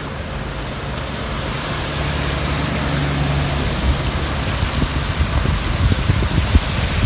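Heavy rain and hail pelting down, a dense steady hiss that grows slightly louder, with a low hum beneath it early on and wind gusts buffeting the microphone in the second half.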